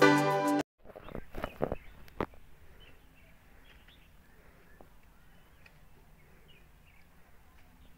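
Background music cuts off abruptly under a second in. A few knocks follow, then faint, scattered bird chirps over quiet background noise.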